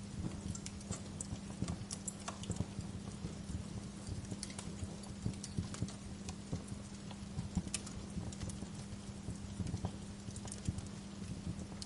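Wood fire in a fireplace crackling, with irregular sharp pops and snaps scattered throughout, over a steady low hum.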